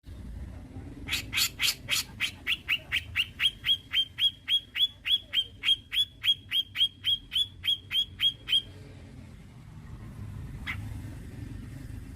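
Grey-cheeked bulbul (cucak jenggot) calling a fast string of about 25 sharp downslurred notes, roughly three a second, for about seven seconds, then one lone note near the end.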